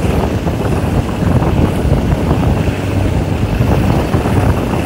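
Passenger train running along the track: a steady noise of wheels on rails and rushing air, with wind buffeting the microphone at an open coach window.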